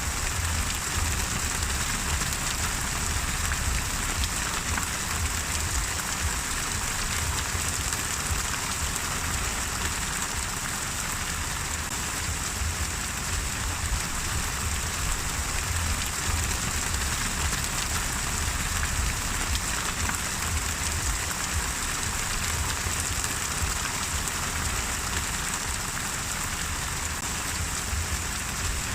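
Steady rain falling and pattering on surfaces, an even hiss of many drops that keeps the same level throughout.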